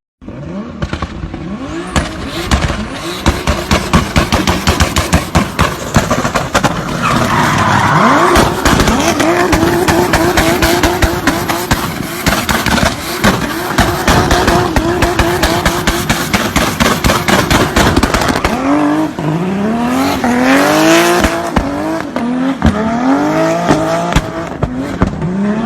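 BMW E30 engine and exhaust revving hard, with a dense run of sharp exhaust crackles over the engine note. In the last third it climbs through several quick rising revs, one after another.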